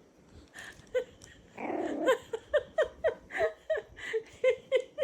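A toddler laughing in a rapid run of short "ha" bursts, about three a second, each dropping in pitch, starting about a second and a half in and going on to the end.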